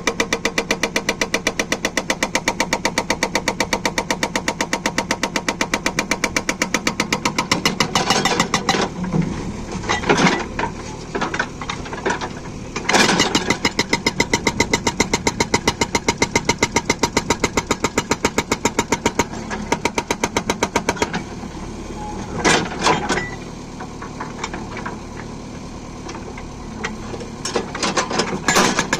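Backhoe-mounted Atlas Copco hydraulic breaker hammering at a fast, even rate of about ten blows a second, with a few louder bursts along the way. The hammering stops about two-thirds of the way through, leaving the backhoe's diesel engine running, and starts again just before the end.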